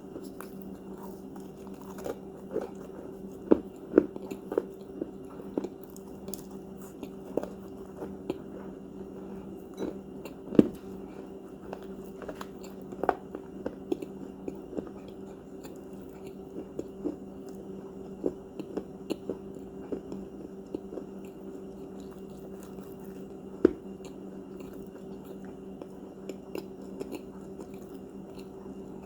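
Crunchy cookies being bitten and chewed close to the microphone, with irregular sharp crunches, the loudest about four seconds in, about ten seconds in and near the end. A steady low hum runs underneath.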